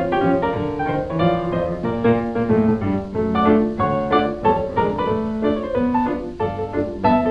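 Background piano music: a steady run of many notes.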